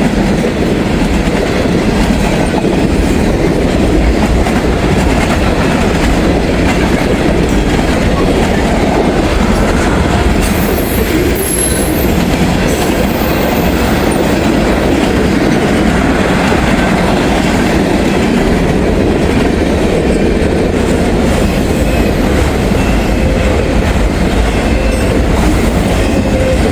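Freight train's cars rolling past close by: a steady, pretty loud rumble of steel wheels on the rails, with a faint high squeal around the middle.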